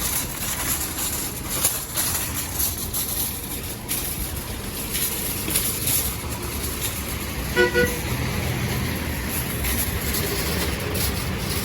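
Steady outdoor street noise with a short vehicle horn toot about eight seconds in.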